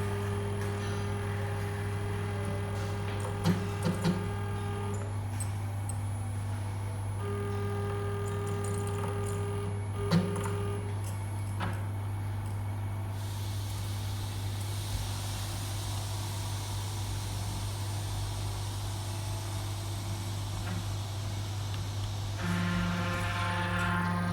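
CNC stepper motors and their drive electronics humming steadily, with pitched tones that start and stop in stretches of a few seconds and a few sharp clicks. This is the weird sound that appears once the controller box is switched on.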